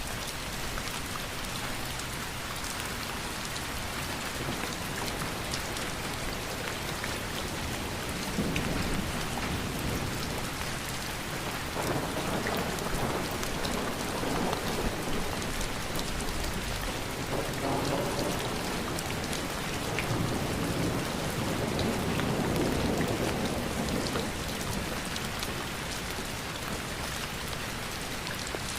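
Steady rain falling and pattering, with several low rumbling swells rising and fading through the middle.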